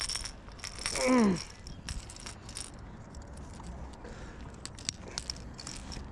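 Light metallic jangling and clicking from a topwater popper lure's hooks, rattling as the lure is shaken about on a freshly landed smallmouth bass. A short falling vocal exclamation comes about a second in.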